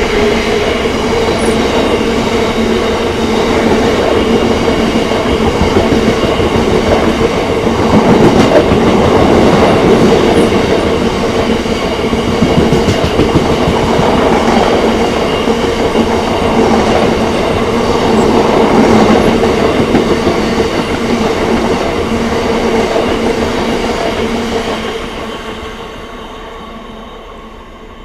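Freight train wagons rolling past at speed: a loud, steady rumble of wheels on rail with a steady hum, fading away near the end.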